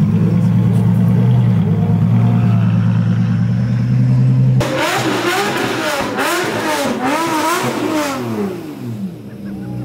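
Ferrari GTC4Lusso engine running at a low, steady note, then about halfway through it is revved hard, the engine note rising and falling several times, and it fades near the end.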